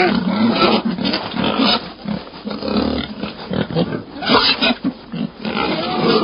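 Pig grunting in short, irregular bursts.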